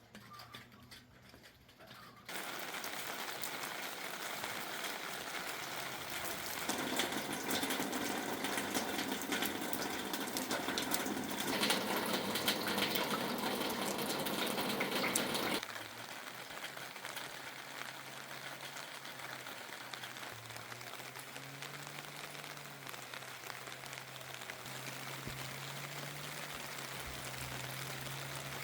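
Steady rushing water noise that starts suddenly about two seconds in, grows louder in the middle and drops back about sixteen seconds in, with a low steady hum under it in the second half.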